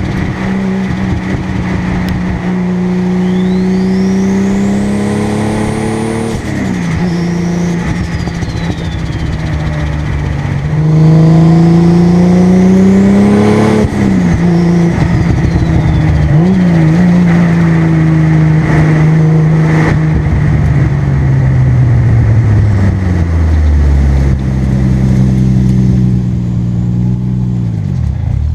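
Single-turbo Toyota Supra's 2JZ straight-six pulling up through the gears, its pitch climbing and then dropping at two gear changes, with a high turbo whistle rising as it spools and falling away after each shift. Later the engine eases off and the revs fall.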